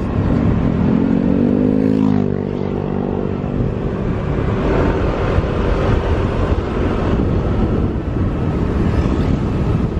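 Motorcycle engine under way, its pitch rising over the first two seconds, then dropping about two seconds in and running on steadily under a haze of wind and road noise.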